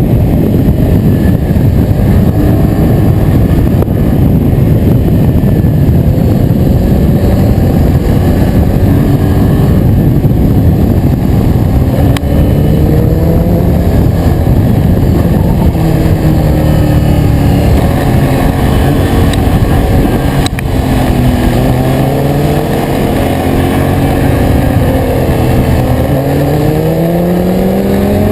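Yamaha MT-07's 689 cc parallel-twin engine running under way, with heavy wind rumble on the microphone. The engine pitch falls off through the middle as the bike slows, then climbs steeply near the end as it accelerates again.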